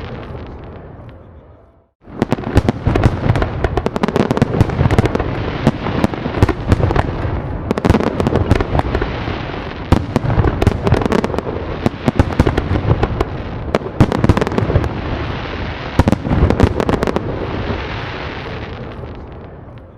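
Fireworks going off in a dense, continuous barrage of bangs and crackling. A previous barrage dies away into a moment of silence about two seconds in, then a new volley starts abruptly and fades out again near the end.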